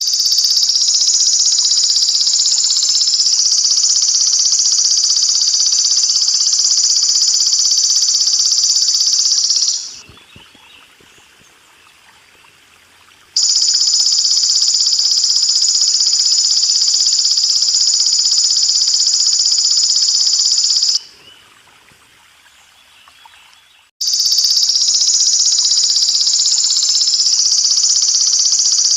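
Golden grasshopper (belalang emas) calling in a loud, continuous high-pitched buzzing trill in three long spells. Each spell starts and stops abruptly, with two breaks of about three seconds. A faint trickle of water runs underneath.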